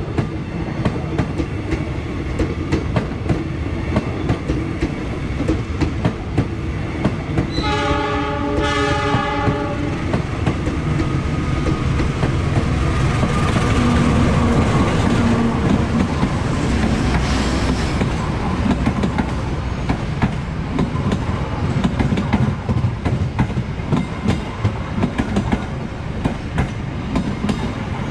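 Trains passing a junction with a steady clatter of wheels over rail joints and points. About eight seconds in, a train horn sounds two blasts, a chord of several tones. A diesel-locomotive-hauled passenger train then passes, loudest around the middle, and an electric train runs close past near the end.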